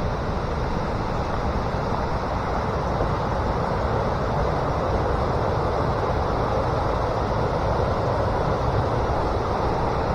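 Steady rushing outdoor noise, even and unbroken, with its weight in the low and middle range.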